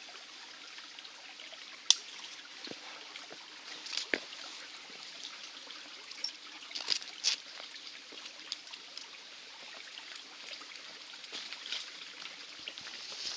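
Small creek trickling in a steady hiss, with scattered sharp clicks over it, the loudest about two seconds in.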